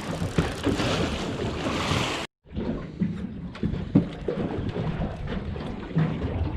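Wind buffeting the microphone and water washing against a small fishing boat, with a few sharp knocks, one louder about four seconds in. The sound drops out for a moment about two seconds in.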